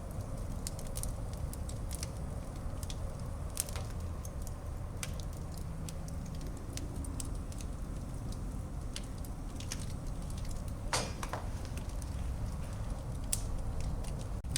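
Wood fire burning in a fireplace: a steady low rumble of the flames with scattered small crackles and pops, and a sharper double pop about eleven seconds in.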